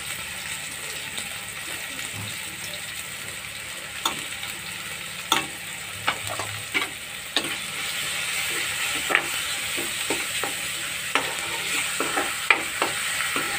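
Chopped onion, tomato and green chilli sizzling steadily in hot oil in a metal kadhai. From about four seconds in, a spoon stirs the mix, giving irregular sharp clicks and knocks against the pan.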